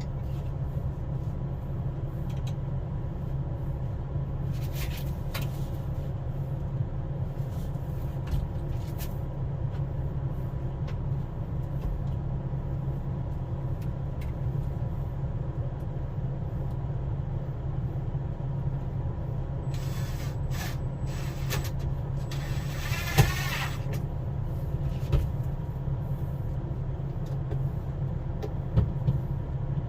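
A steady low machine hum, with scattered clicks and knocks over it. A louder rushing noise comes in for a few seconds near the end, with a sharp knock in the middle of it.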